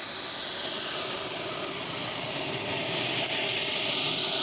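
Engine of a radio-controlled scale T-33 jet model giving a steady high-pitched whine, its pitch easing slightly lower, as the model rolls out after landing.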